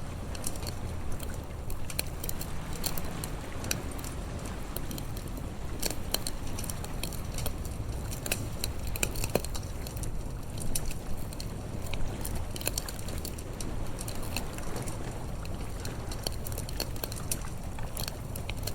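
Wood fire crackling, with irregular sharp pops and snaps throughout, over a low steady rumble.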